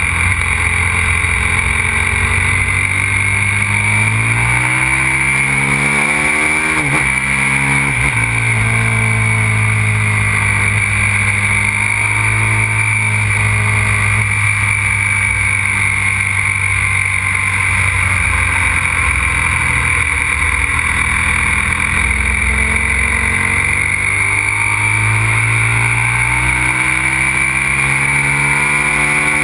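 Aprilia RXV 550 supermoto's V-twin engine running hard under riding load, its pitch climbing and falling with the throttle. Engine speed drops sharply twice about seven and eight seconds in, and again near the end.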